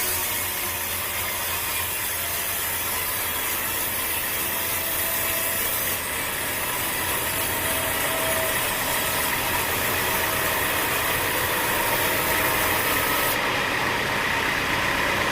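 Sawmill machinery running steadily: a motor and a continuous hiss, with no distinct cutting strokes. The sound shifts abruptly about six seconds in and again near the end.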